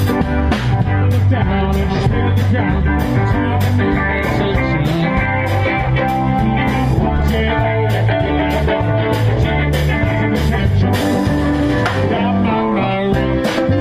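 Blues-rock band music with guitar, a repeating bass line and a steady drum beat.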